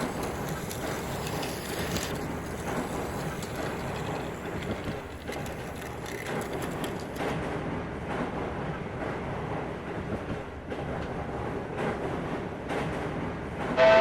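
Plarail toy model of the C61 20 steam locomotive running along plastic track: a steady whirr from the battery motor and gears with many small irregular clicks and rattles from the wheels and track.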